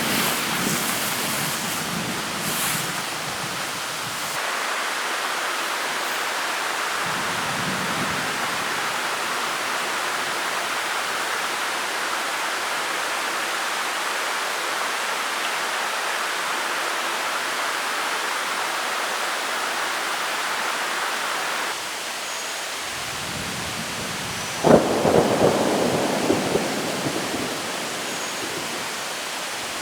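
Steady heavy rain hiss throughout. About 25 seconds in, a sudden loud thunderclap cracks and rolls off in a low rumble over the next few seconds.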